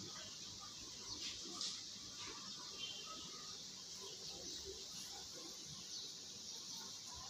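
Faint outdoor ambience: a steady hiss with a few faint, short bird chirps.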